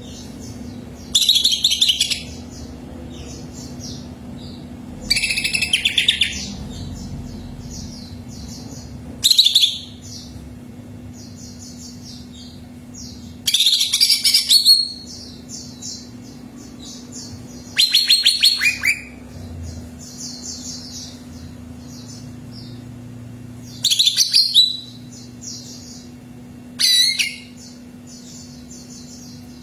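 Cucak ijo (leafbird) singing in loud phrases about a second long, each a fast run of notes, repeated about every four seconds. Softer high chirping runs on continuously between the phrases, over a steady low hum.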